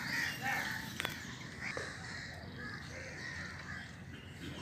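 A few short, harsh bird calls near the start over a faint steady background, with a single sharp click about a second in.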